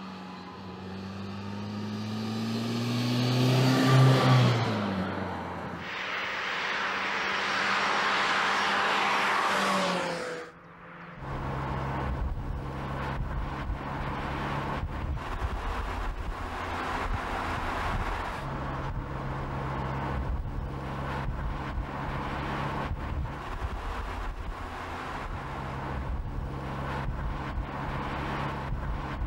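E30 BMW M3 pickup's four-cylinder engine: the car drives past, its note rising to a loud peak about four seconds in and then dropping in pitch as it goes by, followed by a rushing of wind and tyres. From about eleven seconds a steady engine drone, with a few short dips, runs on.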